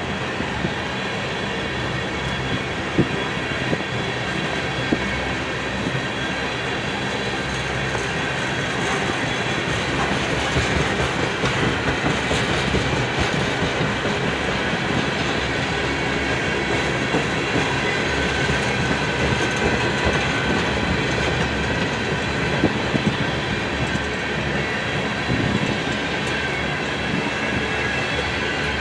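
Empty crude-oil tank cars of a freight train rolling steadily past, wheels clacking over rail joints with a steady high squeal from the wheels.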